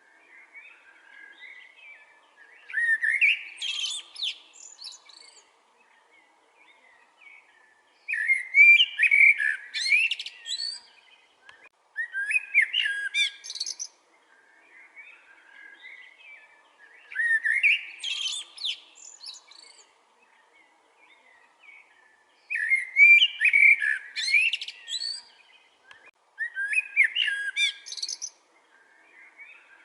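Common blackbird (Eurasian blackbird) singing: about six separate song phrases, each roughly two seconds long, with pauses of a few seconds between them.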